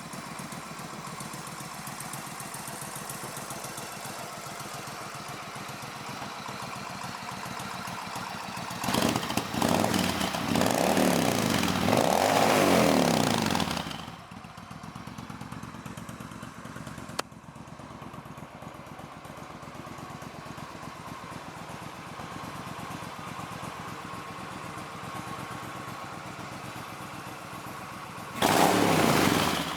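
Suzuki VS1400 Intruder's V-twin engine idling with a steady pulse. It is revved in a series of blips for several seconds about a third of the way in, then drops back to idle, and is blipped once more just before the end.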